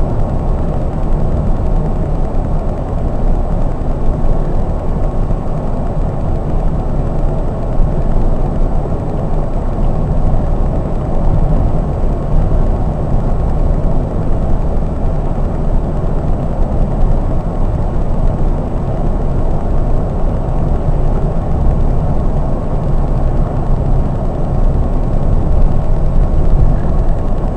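Scania K420 double-decker coach driving at a steady speed: an even low rumble of engine and tyres on the road that holds unchanged throughout.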